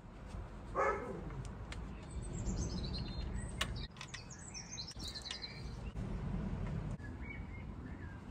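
Songbird chirping in quick falling phrases, with a few sharp light clicks of sump bolts being fitted by hand.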